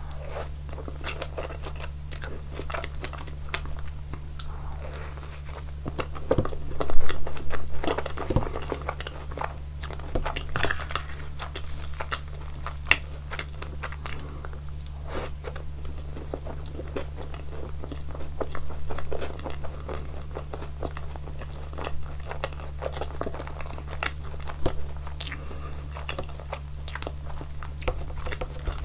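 Close-miked eating of a strawberry and whipped-cream waffle: irregular crunchy bites and chewing, loudest about seven seconds in. A steady low hum runs underneath.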